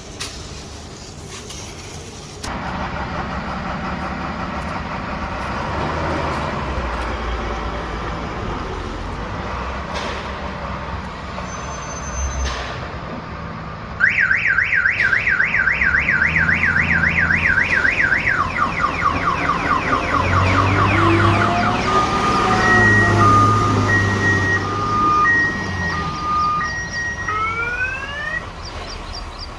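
An electronic vehicle alarm cycling through its tones over a running engine. About halfway through it starts loudly with a fast up-and-down warble, then changes to slower falling sweeps, then alternating two-pitch beeps and quick rising sweeps.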